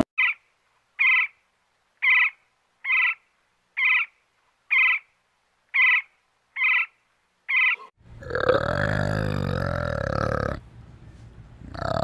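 Pileated woodpecker calling: nine short single notes, about one a second. About eight seconds in, a louder, deeper sound lasting about two and a half seconds takes over.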